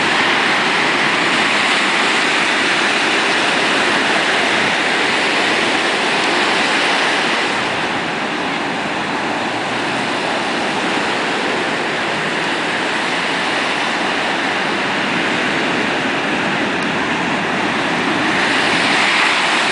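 Big ocean surf breaking and washing up the beach: a loud, steady rush that eases a little midway and swells again near the end.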